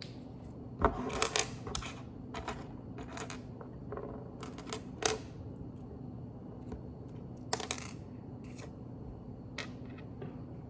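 Plastic Lego pieces clicking and clattering as they are handled, in scattered groups of sharp clicks, the loudest about a second in and again a little past the middle, over a steady low hum.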